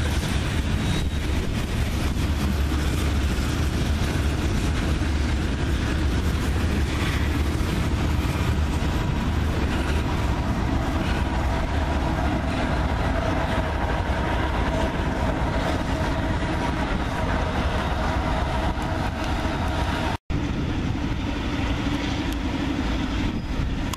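Freight train of covered hopper cars rolling past, a steady low rumble of wheels on the rails, then a Norfolk Southern EMD GP59 diesel locomotive on the rear passing close with its engine running. The sound cuts off sharply about 20 seconds in and comes back quieter and more distant.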